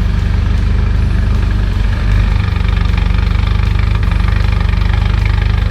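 Nissan Silvia S14's turbocharged SR20 four-cylinder engine idling, a steady low rumble with an even pulsing beat and a brief uneven patch about two seconds in.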